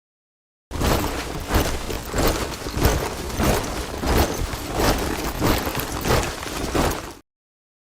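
Boots of a troop of soldiers marching in step, about two footfalls a second. It starts abruptly just under a second in after dead silence and cuts off suddenly near the end.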